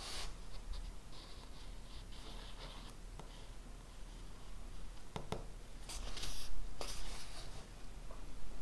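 Pen writing on paper: runs of short scratchy strokes, with two sharp clicks a little after five seconds in and louder strokes soon after.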